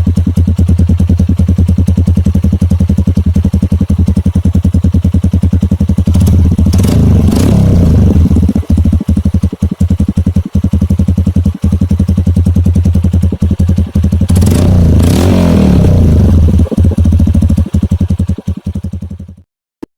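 Kawasaki KLX 150's single-cylinder four-stroke engine idling through a Purbalingga T4 Pro Circuit aftermarket exhaust with a fast, even beat, revved briefly twice several seconds apart. The sound cuts off suddenly near the end.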